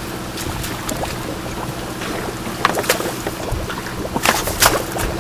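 Engine running steadily with a low, even hum, with a few sharp knocks and clatters about two and a half seconds in and again near the end.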